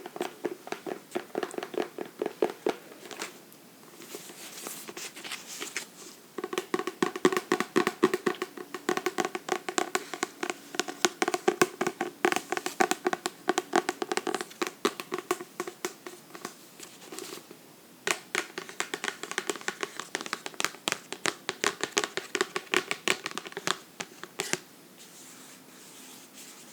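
Fingers tapping rapidly on a book, in quick runs of many sharp taps with a hollow ring, broken by brief pauses. The tapping stops near the end, leaving a faint rustle.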